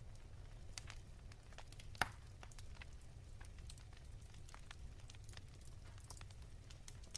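Wood fire crackling softly, with scattered small pops and one sharper pop about two seconds in, over a low steady rumble.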